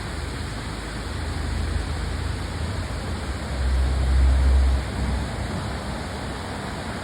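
Steady rushing of waterfalls, an even hiss of falling water, with a low rumble that swells for about a second just past the middle.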